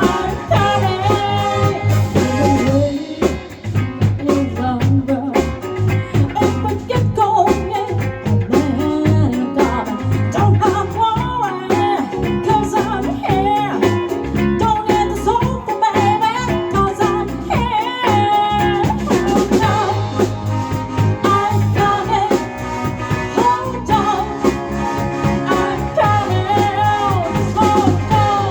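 A live band playing a song: drum kit, a steady bass line and a wavering lead melody over the top.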